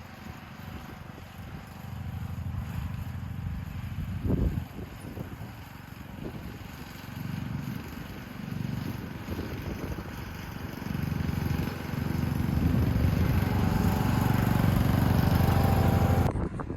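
John Deere S100 riding lawn mower's engine running while mowing, its level rising and falling, with a short thump about four seconds in; it runs louder and steadier over the last few seconds.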